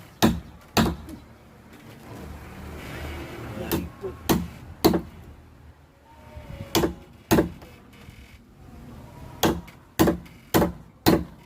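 A mallet driving a chisel into the wood of a boat hull being carved, with sharp knocks, often in pairs about half a second apart and with pauses between.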